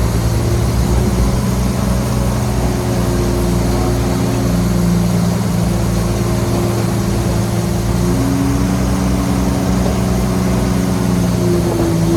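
Heavy diesel engine of earthmoving machinery running steadily at a constant drone, with a slight change in pitch about eight seconds in.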